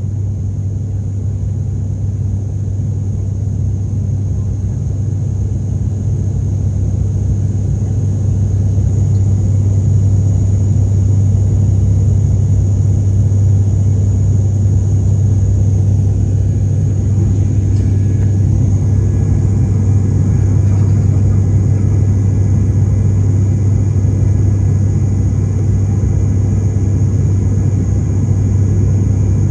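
Steady cabin drone of an airliner in flight: engine and airflow noise heard from inside the cabin, a deep hum with a faint high whine above it, growing slightly louder over the first ten seconds.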